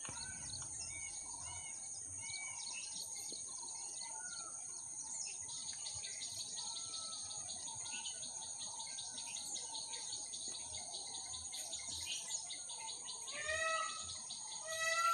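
Birds chirping and calling over a steady, high-pitched insect drone. Near the end a louder, arched call with several evenly spaced overtones comes in.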